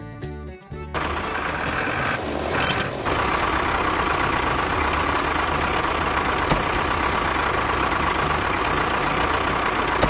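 A small vehicle motor running steadily, with a faint steady whine, starting about a second in over a low rumble.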